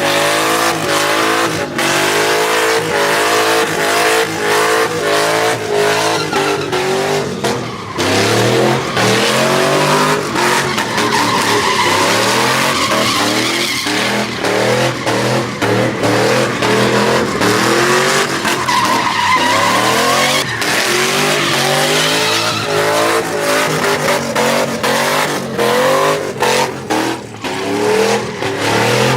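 Truck engines revving hard, the pitch climbing and dropping again and again, over the hiss and squeal of tyres spinning in burnouts and donuts.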